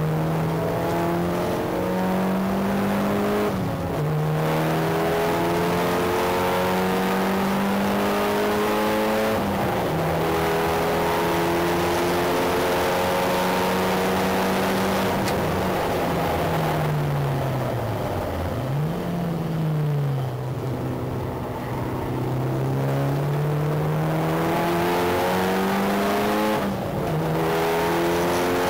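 Mitsubishi Lancer Evolution VI's turbocharged 2.0-litre four-cylinder pulling hard on track, heard from outside the front wheel arch with wind and road noise. The engine note climbs steadily and drops sharply at upshifts about four and ten seconds in and again near the end. Around seventeen to twenty seconds in it winds down and then climbs again.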